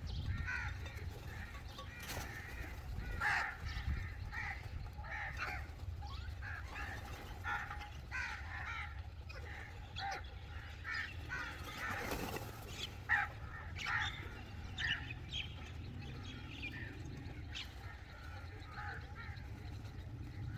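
Crows cawing: short calls following one another every second or so, over a steady low rumble.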